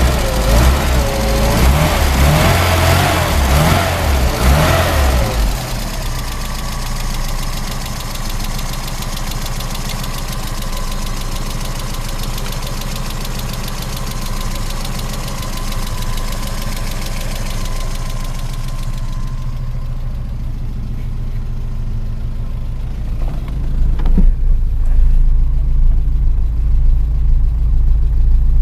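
1980 Austin Mini's tuned MG 1300 cc engine revved in several quick throttle blips, then settling to a steady idle. Near the end, the higher sounds fall away and a deep rumble grows louder.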